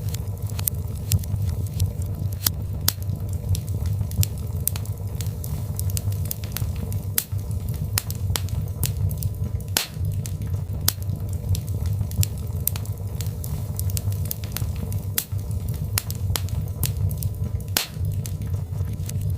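Birchwood fire burning in a fireplace, crackling with frequent, irregular sharp pops over a steady low rumble.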